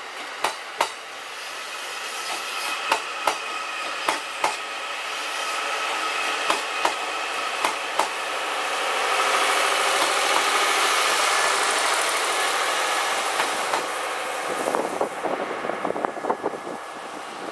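E001-series Shiki-shima dual-mode train passing slowly on diesel power. Its wheels click over rail joints in pairs during the first half, under a steadily rising engine and generator noise that is loudest as the end car with its diesel engine goes by. The engine noise falls away sharply about three seconds before the end.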